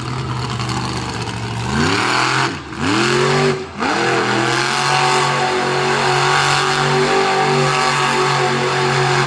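Monster truck engine running at high revs. About two to four seconds in, the pitch drops off and surges back up twice in quick succession, then holds high and steady.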